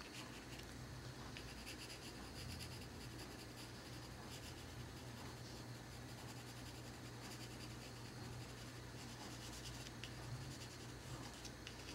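Pencil lightly scratching on paper in faint, irregular short strokes while a blue jay is sketched with very little pressure. A faint low hum runs underneath.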